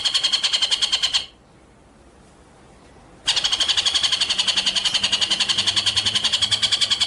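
A bird's rapid, even, high trill of about ten notes a second, as played for songbird training. It stops a little over a second in and starts again about two seconds later.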